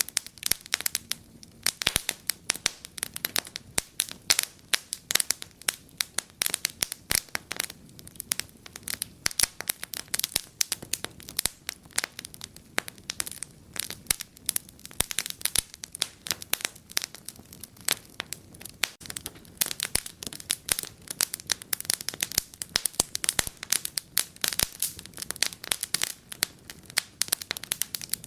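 Wood fire crackling in a fireplace: a dense, irregular run of sharp pops and snaps over a faint low hiss of burning.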